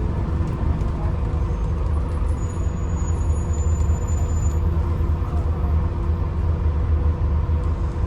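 Scania N250UD Enviro400 MMC double-decker bus's five-cylinder diesel engine running steadily, a deep low rumble heard from inside the passenger cabin.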